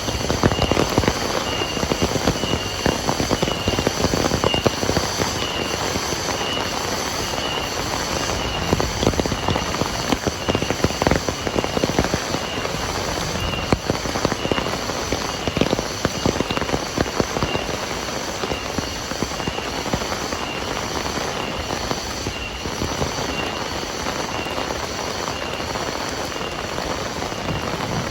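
Heavy rain pouring down steadily, with big drops hitting a hard surface close by in many sharp taps. A high chirping pulses about twice a second throughout.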